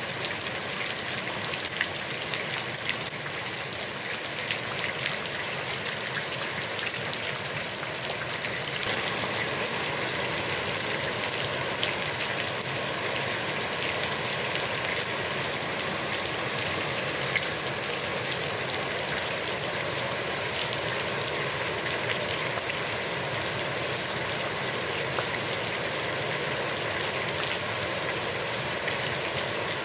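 Heavy rain falling on a pond: a steady, dense hiss of rain with fine scattered drop patter, a little louder from about nine seconds in.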